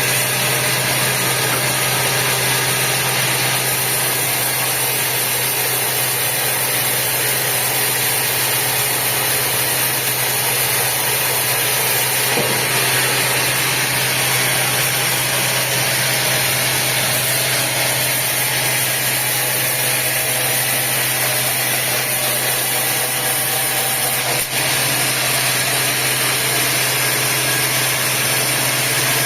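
Sawmill machinery running steadily: a constant low engine-like hum under a wide hiss.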